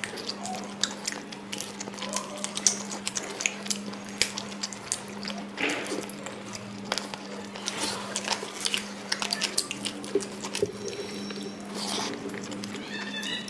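Close-up eating sounds: wet chewing and lip-smacking of rice and curry eaten by hand, many short sharp mouth clicks. A steady low hum lies under them.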